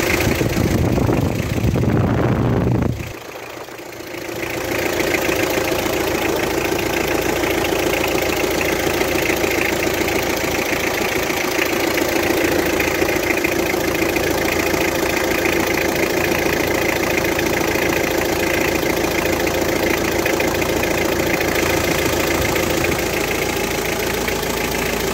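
Car engine idling steadily after a valve adjustment, a new water pump and a new valve cover gasket, following a brief loud low rumble in the first three seconds.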